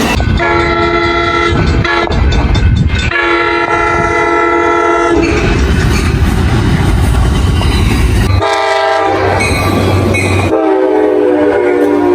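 Locomotive air horn sounding a series of long blasts over the rumble of a moving train, the last blast dipping slightly in pitch as the train goes by.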